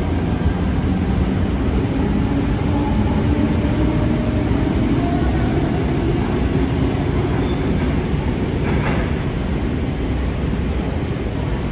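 Electric suburban passenger train running with a steady, loud rumble.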